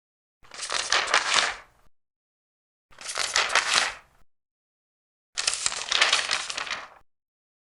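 Large paper pages being turned three times, each turn a crackling rustle of about a second and a half, with silence between the turns.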